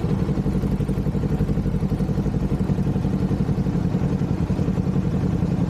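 Kawasaki Z400's parallel-twin engine running at a steady, unchanging pitch, its exhaust pulsing evenly.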